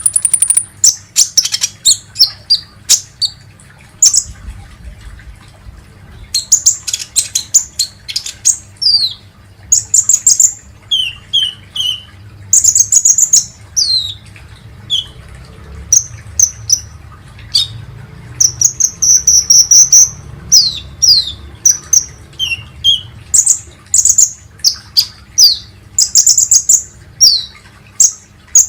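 Song of the sunbird known in Indonesia as the kolibri ninja: rapid, thin, high chirps and short trills in quick runs with brief gaps. Many notes sweep downward, and one trill is held for about two seconds roughly two-thirds of the way in.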